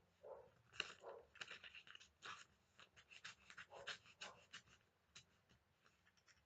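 A box cutter slicing through a sheet of paper: a quiet series of short, irregular scratching strokes.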